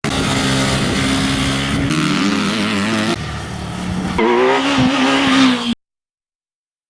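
Honda CBR250R's single-cylinder engine revving, its pitch shifting up and down, heard in a few short clips spliced together. It cuts off abruptly near the end.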